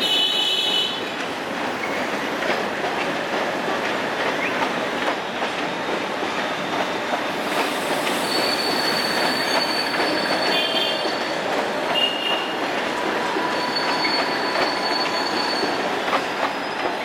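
Indian Railways express coaches rolling slowly along the track. Wheels rumble and clatter on the rails, with high-pitched wheel squeals coming and going, about halfway through and again near the end.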